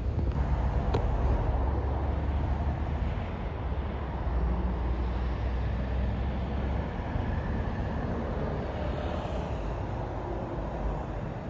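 Steady low rumble of a train in the distance, slowly fading, with a single sharp click about a second in.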